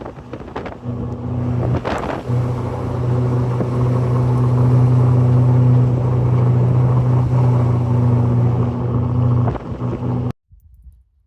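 A motor running at a steady speed: a constant low drone over a rushing noise. It cuts off abruptly near the end.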